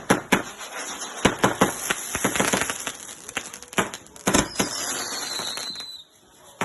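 Fireworks display: a rapid run of loud bangs with crackling between them, and a falling whistle about four and a half seconds in. The bangs stop about six seconds in.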